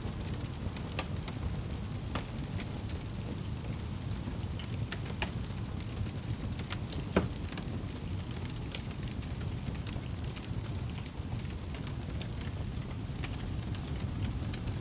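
Wood fire burning in a fireplace: a steady low rumble with scattered crackles and pops throughout, and one sharper, louder pop about seven seconds in.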